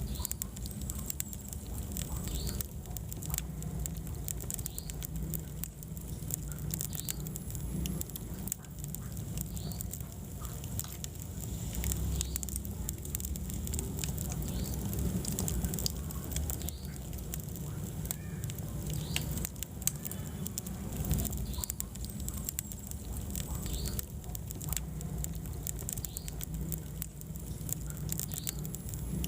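Wood fire burning in a fireplace, crackling with many irregular sharp pops over a low steady rumble of the flames; one of the loudest pops comes about two-thirds of the way through.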